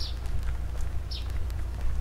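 A bird calling over and over, a short falling chirp about once a second, over a steady low rumble.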